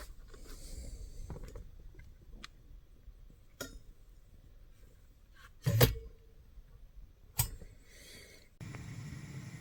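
Scattered clinks and knocks of dishes and utensils being handled, the loudest about six seconds in and a second sharp one shortly after. A steady background hiss sets in near the end.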